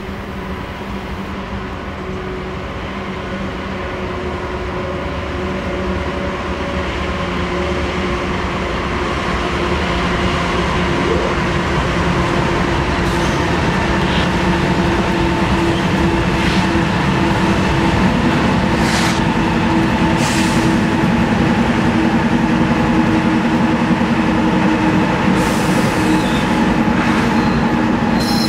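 Norfolk Southern freight train behind GE diesel locomotives rolling past, its wheels and cars rumbling steadily and growing louder, with a few sharp clicks in the second half. Wind buffets the unscreened microphone throughout.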